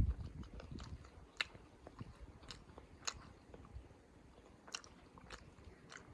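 A person chewing food close to the microphone, with frequent short, sharp mouth clicks and crunches. A duller low thump comes right at the start.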